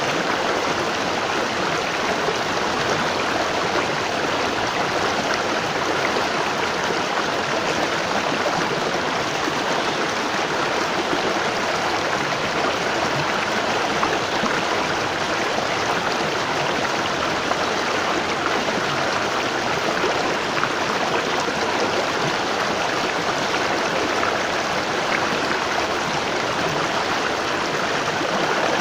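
Waterfall: falling water rushing and splashing in a steady, unbroken stream.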